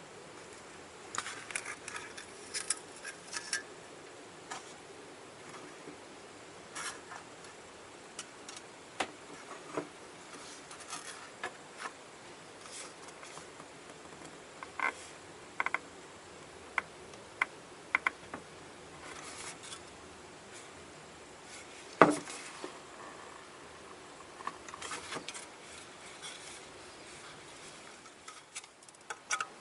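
Scattered light clicks and taps of small hard objects being handled, over a faint steady hum, with one sharper knock about two thirds of the way through.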